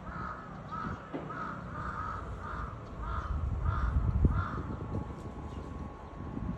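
A bird calling about eight times in quick succession, roughly two calls a second, over a low rumble.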